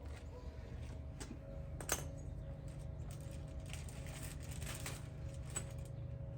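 Scattered light metallic clicks and taps, one sharper click about two seconds in, over a steady low hum.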